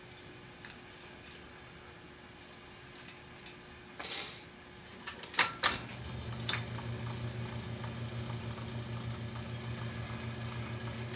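Small clicks and knocks of a 1940s wire recorder being handled, then two sharp clicks of its controls. The recorder then runs with a steady low hum, slightly pulsing, and no program comes from the wire.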